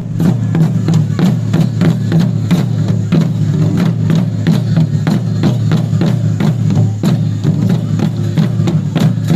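Traditional Nepali drumming, the accompaniment to a Dhami dance: drum strokes beaten in a fast, even rhythm of several strokes a second over a steady low sound.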